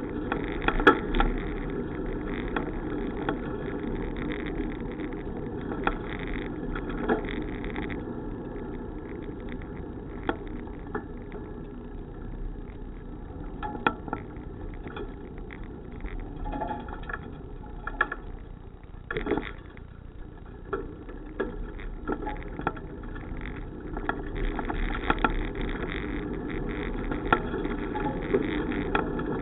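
Bicycle in motion: a steady rumble of tyres and wind, with frequent small rattles and clicks from the bike over the road surface.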